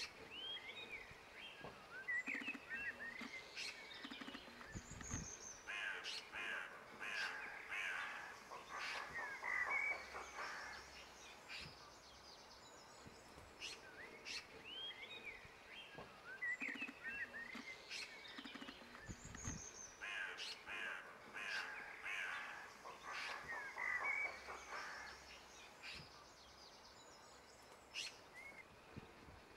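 Birds calling and chirping in bursts of short chirps and harsher clustered calls. The same passage repeats about every fourteen seconds, as from a looped recording.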